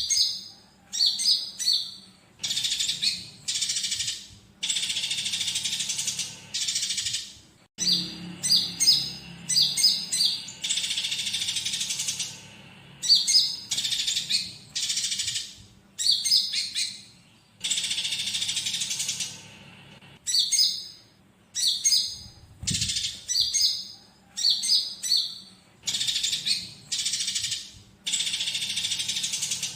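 Konin birdsong on a tutoring recording: repeated high-pitched phrases, some a quick string of sharp chirps and others a longer, harsh trill lasting a second or two, separated by short gaps. The phrases include imitated fighting tree sparrow calls.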